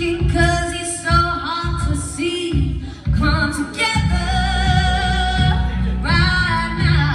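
Music with a singer holding long, wavering notes over a steady bass backing.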